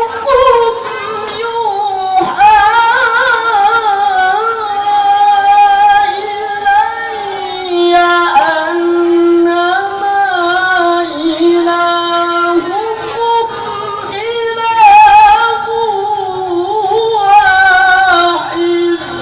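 A child's voice chanting Quranic recitation in the melodic tilawah style: long phrases of held notes with ornamented, wavering turns, broken by short pauses for breath.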